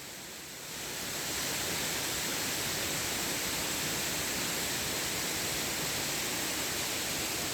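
Waterfall rushing steadily, growing louder over about the first second and then holding level.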